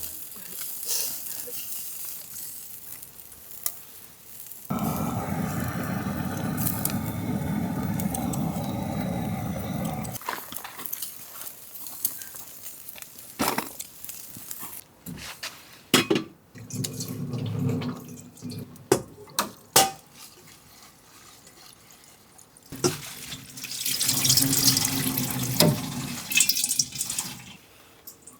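Tap water running into a sink in two stretches: a steady run about five seconds in, and a hissier one near the end. Sharp knocks and clinks come in between.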